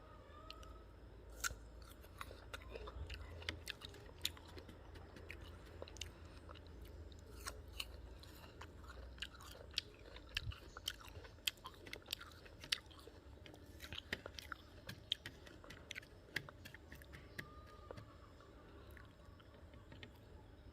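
Crunchy chewing of firm raw guava close to the microphone: many sharp, crisp crunches and bites in an uneven stream, over a steady low rumble.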